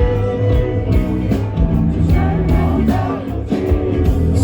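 Rock band playing live: electric guitar, bass and drums, with the singer holding a long note at the start.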